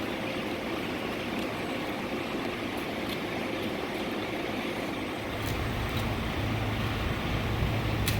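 A vehicle engine running steadily under a constant noisy background, with a deeper low rumble growing louder about five seconds in.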